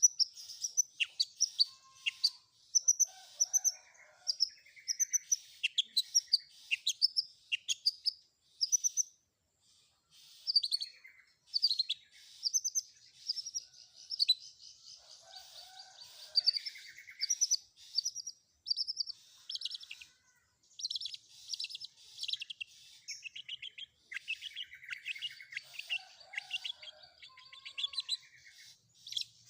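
Long-tailed shrike singing a fast, varied string of sharp chirps, whistles and rattling trills, its song filled with mimicked calls of other birds, with short pauses about a third and two-thirds of the way through.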